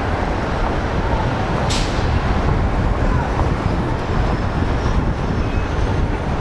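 Downtown street traffic: a steady rumble of passing vehicles, with a short sharp hiss about two seconds in.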